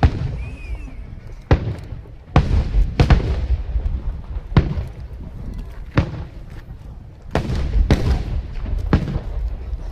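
Aerial fireworks bursting: about ten sharp bangs at uneven intervals, some in quick pairs, over a constant low rumble of echoing detonations.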